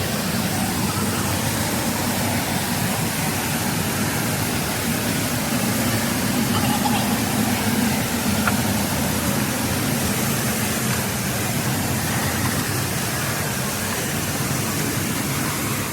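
A large waterfall pouring: a steady, loud rush of falling water.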